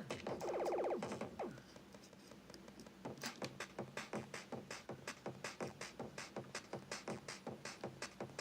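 Teenage Engineering pocket operator playing electronic sounds. A loud buzzy synth tone sounds for the first second, then falling pitch sweeps, then from about three seconds in a fast, steady run of sharp drum-machine clicks.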